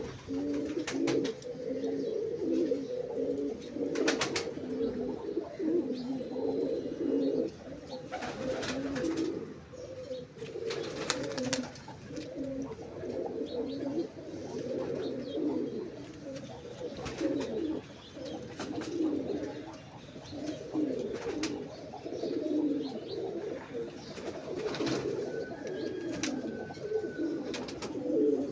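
Domestic pigeons cooing continuously, several low coos overlapping, with a few brief sharp clicks now and then.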